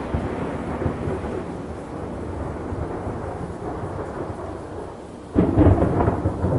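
Thunderstorm ambience: a low thunder rumble over rain slowly dies away, then a new peal of thunder breaks in suddenly about five seconds in and keeps rumbling.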